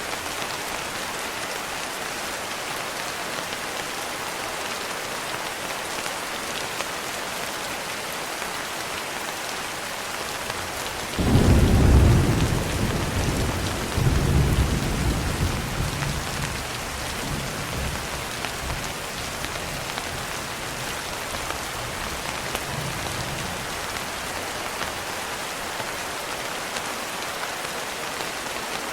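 Steady rain throughout, with a thunderclap about eleven seconds in. It comes in suddenly as the loudest sound, rolls into a low rumble that swells again a few seconds later, then dies away under the rain.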